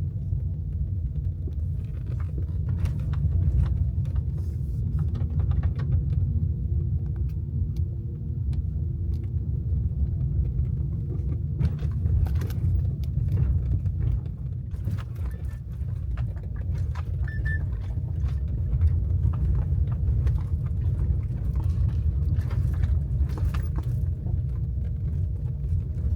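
Car running on a road, heard as a steady low rumble from inside the cabin, with scattered small clicks and rattles.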